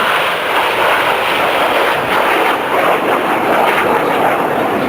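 Loud, steady jet noise from the Red Arrows' BAE Hawk T1 jets flying their display.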